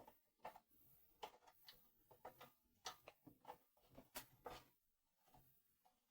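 Faint, irregular clicks and taps of hand tools and small metal parts being handled, about three a second, thinning out near the end: work on fitting a new crimp terminal to a toaster's power cable.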